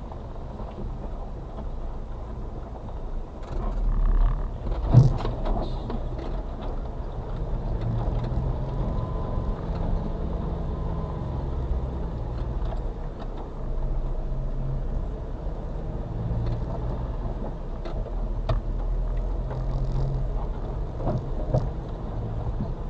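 Suzuki Carry kei truck's 660cc three-cylinder engine running under load, heard from inside the cab, its pitch rising and falling as it works over rough ground. A sharp knock about five seconds in, with lighter knocks and rattles scattered through.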